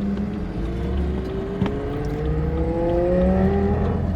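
Audi R8 V10 engine accelerating under load in a recreated Porsche 917, heard from inside the cabin, its pitch climbing steadily through the rev range. A single sharp click comes about a second and a half in.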